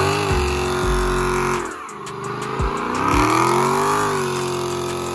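A car engine revving hard. The pitch climbs and holds high, drops away about a second and a half in, then climbs and holds high again.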